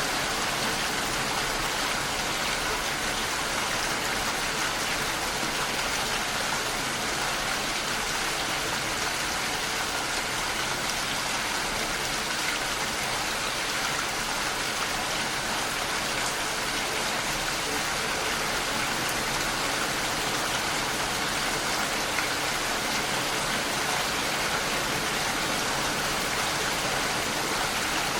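Steady rain falling, a constant even hiss of drops with no pauses or changes.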